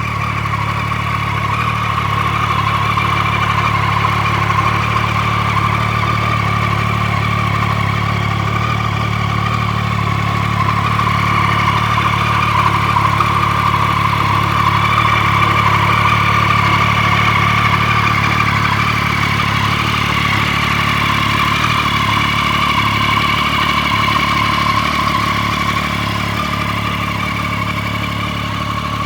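Triumph Street Triple 675R's 675 cc three-cylinder engine idling steadily, with only a slight swell and fall in level.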